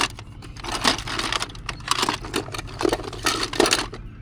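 Irregular rustling and clattering in short bursts, as objects are handled and shifted, over a steady low hum.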